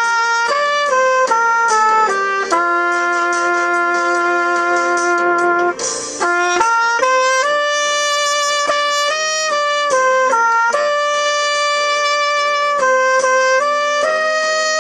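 Solo saxophone playing a slow melody of long held notes, with a quick breath about six seconds in.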